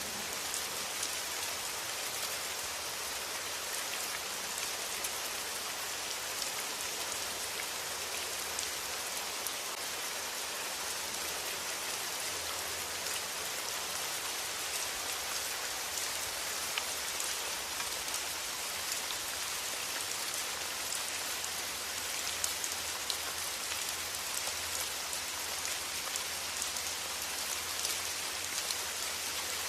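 Steady rain falling, an even hiss with scattered sharp drop taps.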